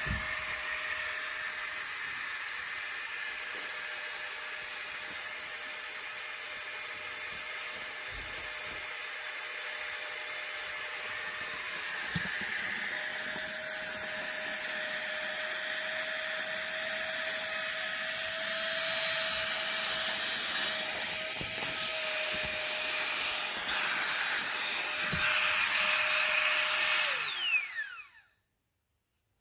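Flextail Tiny Pump 2 mini electric air pump running with a steady high whine and rush of air, its pitch shifting slightly now and then. Near the end it is switched off and its pitch falls as it spins down to a stop.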